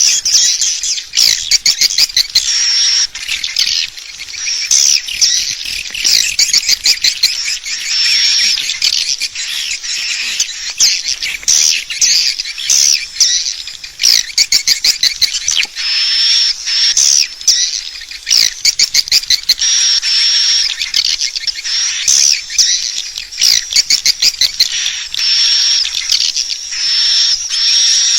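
Swiftlets twittering without a break, a dense stream of rapid high chirps, clicks and trills. This is a swiftlet call recording of the kind played to lure swiftlets in to roost and nest.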